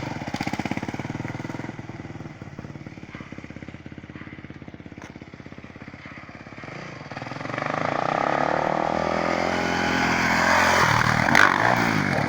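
Yamaha YZ426F dirt bike's single-cylinder four-stroke engine running at low revs, then getting louder and revving up from about seven seconds in, with a dip and rise in pitch near the end. A single sharp click comes near the end.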